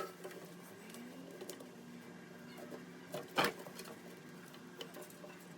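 Faint handling noises of string being tied around a 2x4 under a sink: light rustles and small ticks, with one sharper click about three and a half seconds in.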